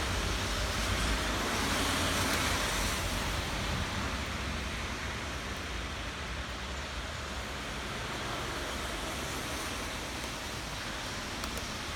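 Steady rain falling as an even hiss, a little heavier in the first few seconds.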